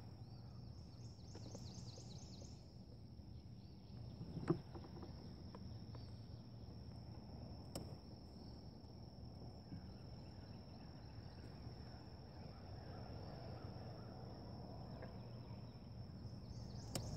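Quiet outdoor ambience: a steady high-pitched insect drone with faint bird calls in the first few seconds. Two soft knocks sound, about four and a half and about eight seconds in.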